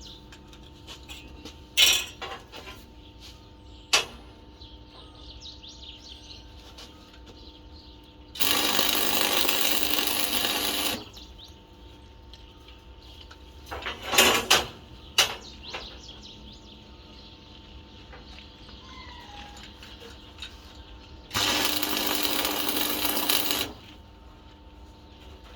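Two bursts of arc welding, each a steady crackling hiss lasting about two and a half seconds that starts and stops abruptly, with a few sharp metal knocks and clinks between them.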